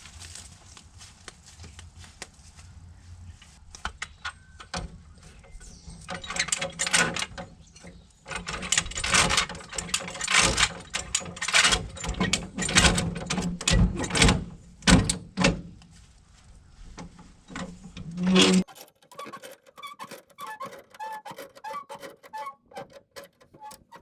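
Metal clanks and ratchet clicks of a high-lift jack being worked, a dense run of sharp knocks in the middle that stops abruptly, followed by lighter ticking over a faint steady hum.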